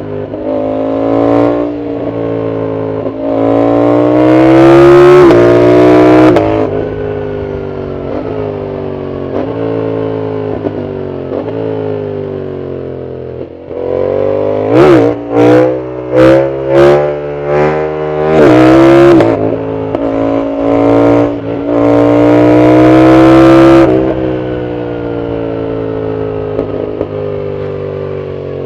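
Yamaha MT-07's parallel-twin engine through a loud full exhaust, pulling up through the gears, its pitch climbing and dropping back at each shift. About halfway through comes a run of short sharp throttle blips, then another long pull and steadier cruising near the end.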